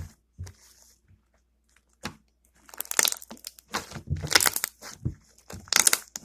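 Slime being squeezed and worked by hand, popping and crackling as trapped air bubbles burst. A few single pops are followed, from about two seconds in, by bursts of rapid crackling clicks.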